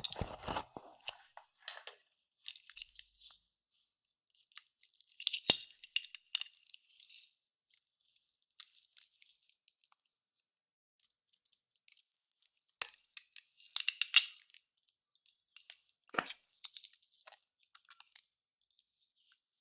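Clear slime being handled, crackling and crunching in short bursts with pauses between them, and a few sharp taps.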